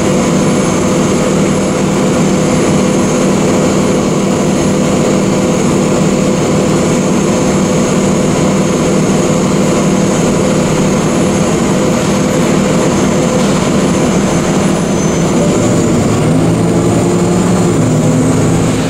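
Loud, steady mechanical drone of a large vehicle's engine, heard from on board, with a constant low hum running through it. It changes slightly near the end and then cuts off abruptly.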